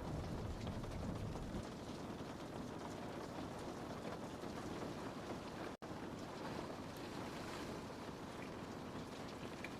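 Steady rain pattering on a window pane, a constant hiss with faint scattered drop ticks. It cuts out completely for a split second almost six seconds in.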